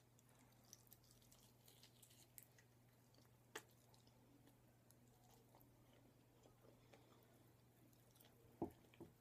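Faint chewing and wet mouth clicks of a person eating a sticky sauced chicken wing, with a sharper click a few seconds in. Near the end a short dull knock, then a smaller one.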